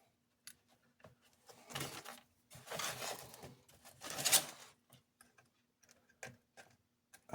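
Small metal switch contacts being handled and fitted back into a plastic toy's switch housing: scattered light clicks and a few longer scraping rubs.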